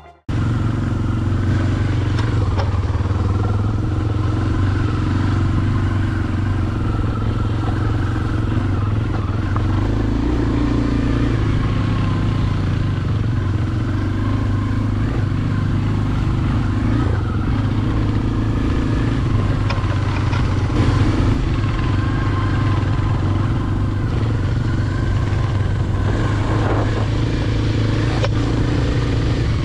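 Dirt bike engine running at a fairly steady pace while riding, with mild changes in engine speed.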